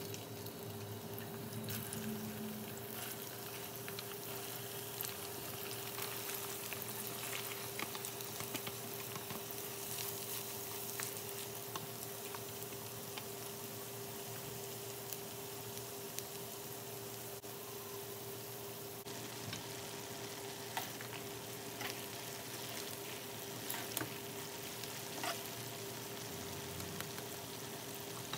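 Sliced onions sizzling in hot oil, a steady crackle with scattered sharp pops, over a steady hum.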